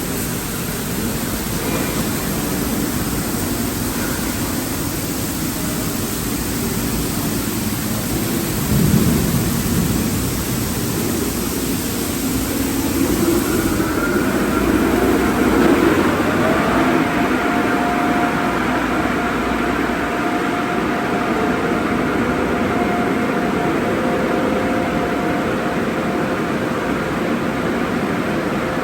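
Automatic car wash tunnel equipment running: a steady, loud rush of machinery noise. A brief swell comes about nine seconds in, and faint steady tones join about halfway through.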